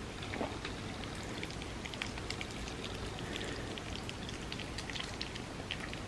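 Close-miked eating of creamy rice pudding: a dense run of small, wet sticky clicks and crackles from the mouth and soft pudding, thickest in the second half.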